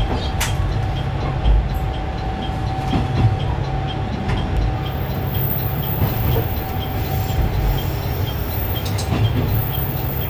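Heard from inside a JR KiHa 120 diesel railcar: the train running slowly over pointwork into a station, with a steady low rumble and a steady hum, and a few sharp clicks as the wheels cross rail joints and switches.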